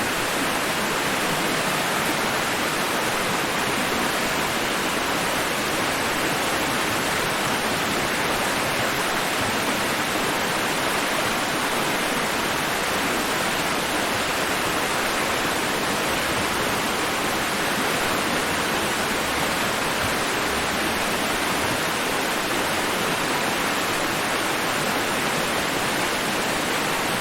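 Steady, unchanging rushing white noise, even in level throughout, with no surge and retreat of waves.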